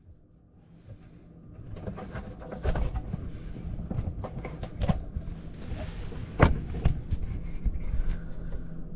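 Irregular knocks, clicks and rustling of hands handling things and moving around, with a brief hiss about two-thirds of the way through.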